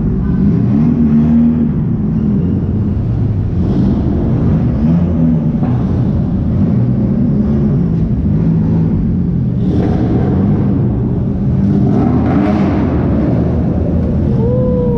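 Car engines running with a loud, steady rumble, the pitch wavering as they rev.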